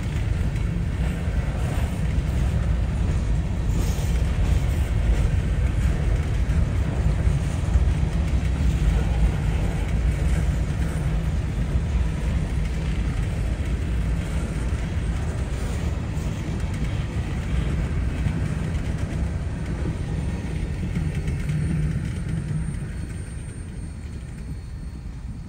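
Freight train passing: a steady heavy low rumble that fades away over the last few seconds.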